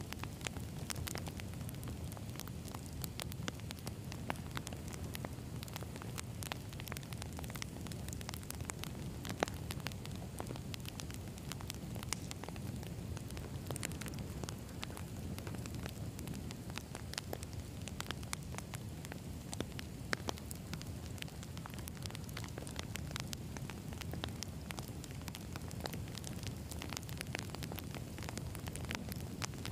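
Wood campfire burning: a steady low rush of flames with many sharp crackles and pops from the burning logs.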